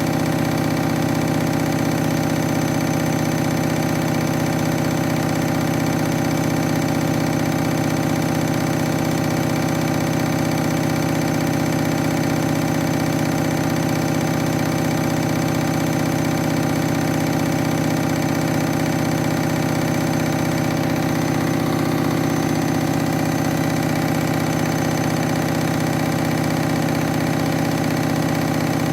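Washing machine spinning an unbalanced load of towels at a steady speed: a constant motor hum and whine made of several steady tones.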